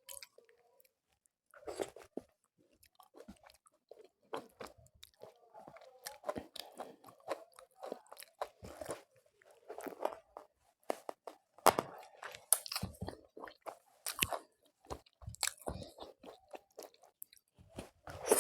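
A person chewing food close to the microphone, with irregular crisp crunches; several loud crunches come in the second half.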